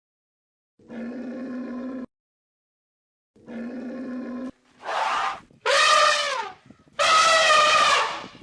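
A series of animal calls: two steady-pitched, medium-loud calls with short gaps between them, then three louder, brighter calls whose pitch bends up and down.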